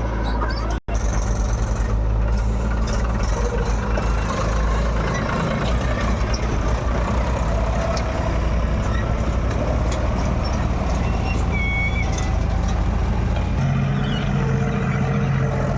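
Heavy diesel machinery engine running steadily, with a brief cut-out about a second in and a steadier, more tonal engine note setting in near the end.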